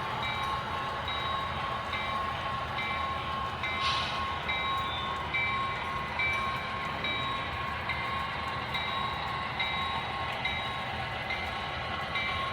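Model train running on the layout: a steady whine over a low rumble, with a light regular ticking about twice a second.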